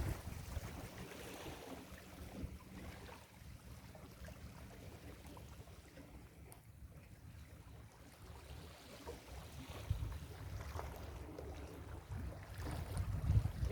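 Ocean surf washing onto a beach, with wind rumbling on the microphone. The rush eases through the middle and builds again near the end as the next wave comes in.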